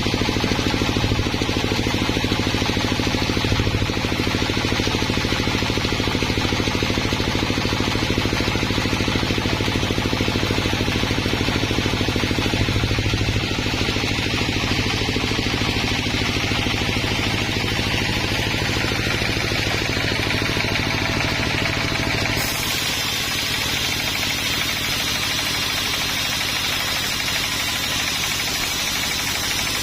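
Engine-driven sawmill machinery running steadily with a continuous engine drone and a higher hiss. The sound changes abruptly about two-thirds of the way through, becoming thinner in the low end.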